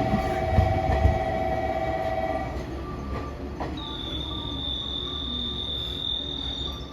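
Train running with a low rumble. A steady humming tone stops about two and a half seconds in, and a high, steady squeal, typical of train wheels squealing, starts about four seconds in.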